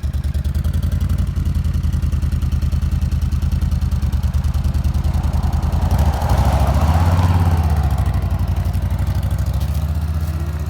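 Motorcycle engine running at idle with a steady pulsing beat, then getting louder and changing pitch about six seconds in as the bike pulls away, and gradually fading as it moves off.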